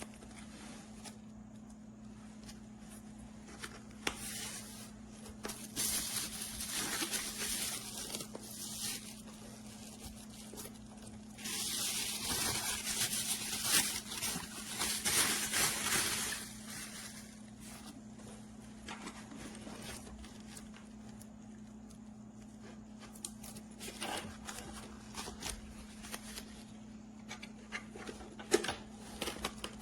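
Rustling and rubbing handling noises in two longer stretches, with a few short clicks and knocks near the end, over a steady low hum.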